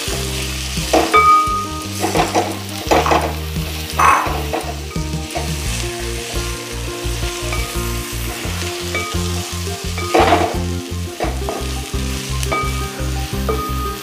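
Pork pieces sizzling in hot oil in an aluminium uruli while a wooden spatula stirs and scrapes them against the pan. There are several louder scrapes about a second in, around three and four seconds, and again near ten seconds.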